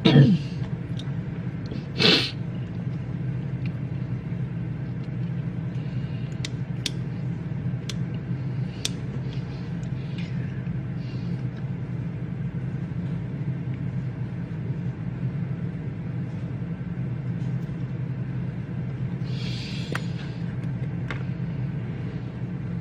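Library reading room ambience: a steady low room hum with scattered faint clicks and soft rustles from people at their desks, and one sharper knock about two seconds in.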